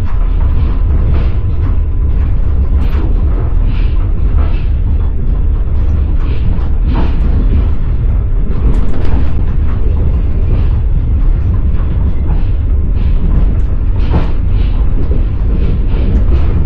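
A passenger train's wheels clattering on the rails, heard from inside the carriage: a loud, steady low rumble with irregular clicks and clacks running through it.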